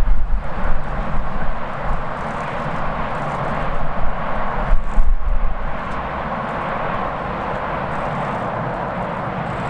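Jet airliner's engines running with a steady rushing noise and a faint whine, while strong gusty wind buffets the microphone with low rumbling, heaviest near the start and about halfway through.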